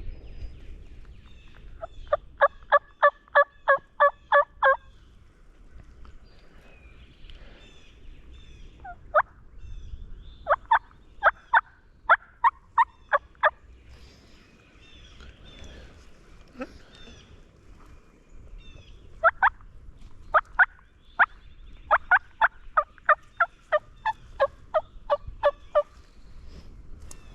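Runs of wild turkey yelps from a hunter's turkey call, sharp notes about three to four a second, in four series with pauses between, used to try to strike a gobble from a longbeard. Faint small-bird chirps sound in the background.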